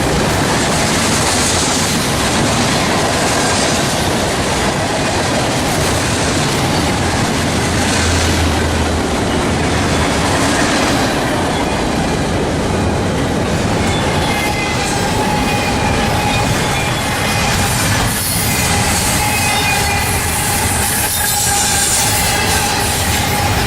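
Norfolk Southern train rolling past with a steady, loud rumble of wheels on rail. From a little past halfway in, high steady wheel squeal sounds over the rumble.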